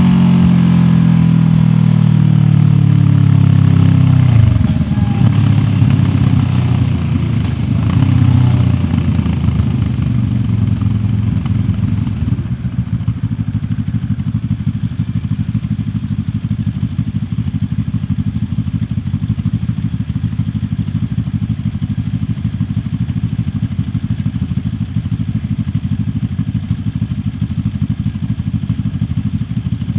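QJ Motor SRT 700X motorcycle engine winding down as the bike slows over the first few seconds, then settling into a steady idle from about twelve seconds in.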